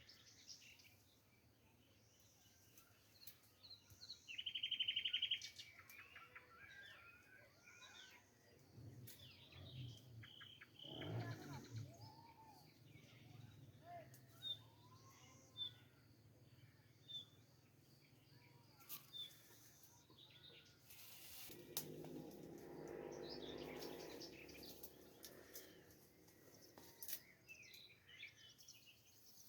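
Faint birdsong: small birds chirping on and off, with a short buzzy trill about four seconds in that is the loudest sound.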